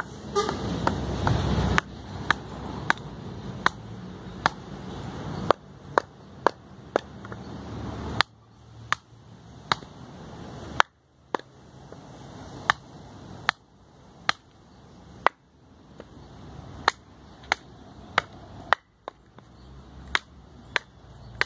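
Batoning: a baton repeatedly striking the spine of a knife driven into a eucalyptus log, splitting it. Sharp, evenly paced knocks, about two a second, with the occasional short pause.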